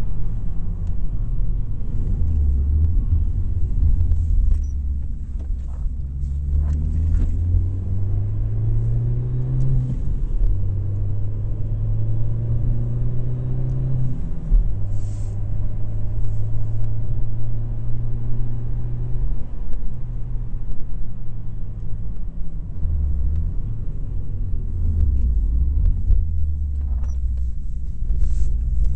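A rally car's engine under hard acceleration, its note climbing and dropping back several times as it changes up through the gears. It then holds steady revs at speed and falls to lower revs near the end, over a constant rumble of road and wind.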